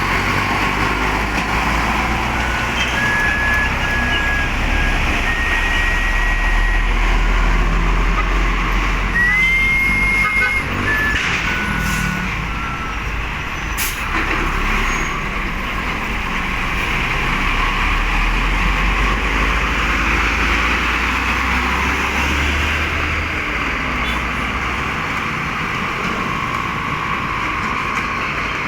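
Heavy cargo trucks running on the road with a steady low engine rumble. In the first half there are several short, high-pitched squeals. Two brief sharp sounds come near the middle.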